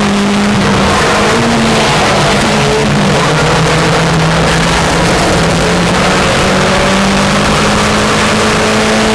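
Racing car engines running hard at high revs, a steady loud drone with several engine notes slowly drifting up and down in pitch.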